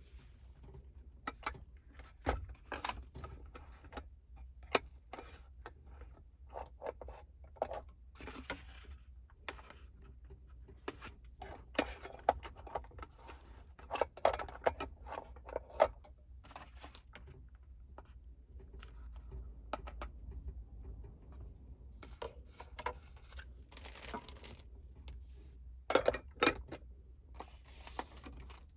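Small objects being handled at close range: an irregular string of clicks, light knocks, rustles and scrapes, over a faint low steady hum.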